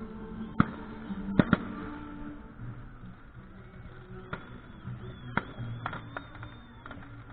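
Fireworks going off in sharp, separate bangs: three in the first second and a half, then a cluster of cracks in the second half, with a thin high whistle running through it. Music plays underneath in the first couple of seconds.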